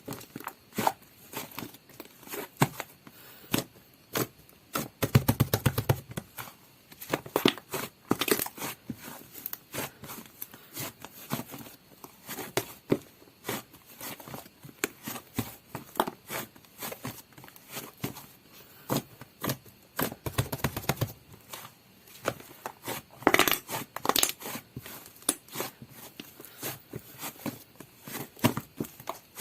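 Hands squishing, stretching and poking a soft butter slime, giving a steady run of small crackling clicks and squishes, with a few louder, fuller squishes about five, eight, twenty and twenty-three seconds in.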